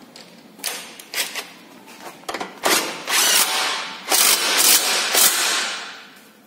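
Electric impact wrench running in a few short bursts, then in longer runs of hammering as it tightens a nut on the car's front suspension.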